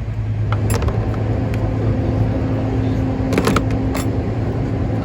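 Steady low mechanical hum, joined about a second in by a steady higher tone, with a few sharp metallic clicks about three and a half seconds in, typical of hand tools on metal.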